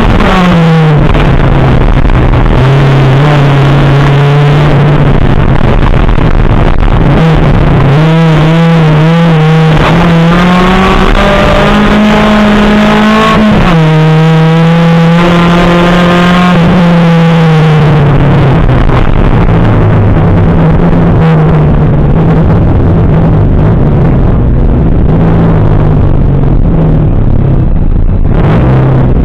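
Rallycross car's engine heard from inside the cabin, running hard at high revs. The pitch climbs and then drops abruptly several times as the driver changes gear and lifts off for corners. Loud throughout, with gravel and road noise underneath.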